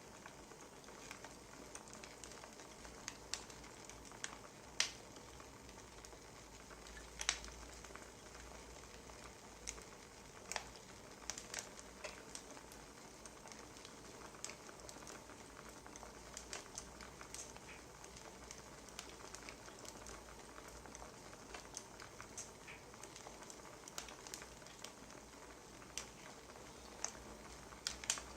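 Wood fire crackling: irregular sharp pops and snaps over a soft steady hiss, with a couple of louder pops.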